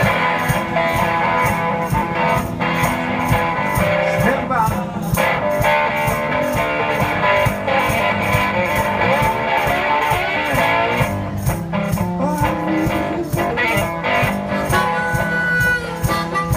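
One-man band playing blues on guitar over a steady beat, with no singing.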